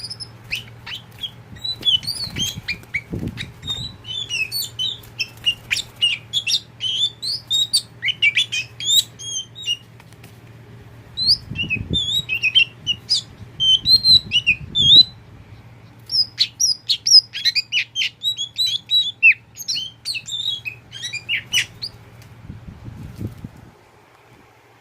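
Oriental magpie-robin singing a varied song of rapid, high chirps and whistles in long runs, with short pauses between them. A steady low hum lies underneath and stops near the end.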